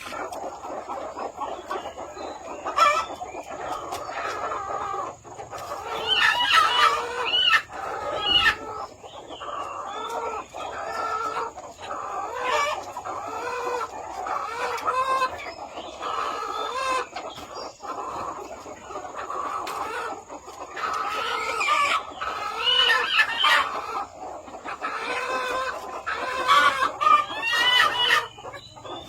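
A flock of chickens clucking continuously, with louder, more excited calls breaking out several times.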